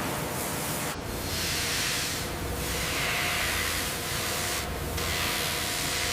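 Hissing, spray-like noise in stretches of one to two seconds, broken by brief pauses, over a faint steady hum.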